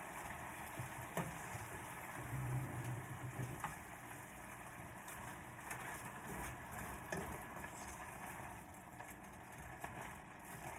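Food sizzling steadily in a pan on the stove, with a few light clicks of a utensil against it.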